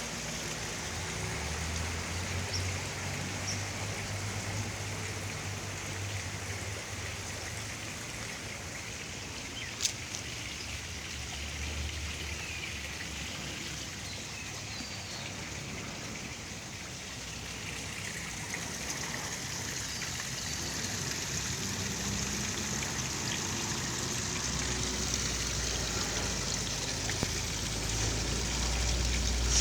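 Storm rain falling steadily, with water trickling and running off. There is a single sharp tap about ten seconds in, and a low rumble builds near the end.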